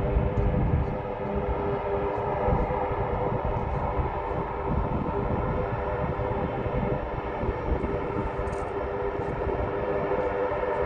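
Aircraft engines running on the ground as a plane taxis before takeoff: a steady, multi-toned engine whine over a constant low rumble.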